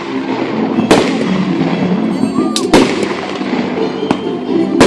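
Fireworks bursting overhead: four sharp bangs, about a second to two apart, the last two close together near the end, over steady background voices.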